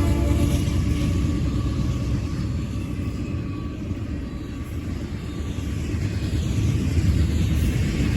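Freight train passing at speed: a steady, heavy low rumble that eases slightly in the middle and builds again near the end.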